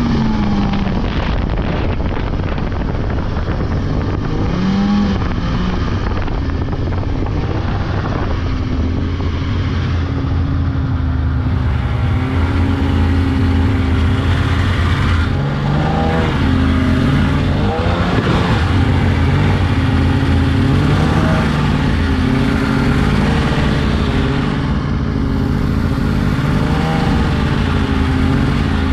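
Polaris 600 two-stroke snowmobile engine running under way, its pitch rising and falling with the throttle, over a steady rush of noise.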